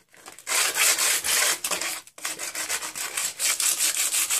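Coarse sandpaper rubbed by hand over white-painted wood, roughing up the paint so the stripper can soak in. A long scratchy stroke, a short pause about two seconds in, then quick back-and-forth strokes.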